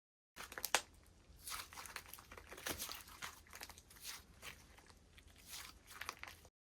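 Slime being squeezed, stretched and pressed by hand, giving a quick run of crackling clicks and pops with softer squelching in between. It starts about half a second in and stops just before the end.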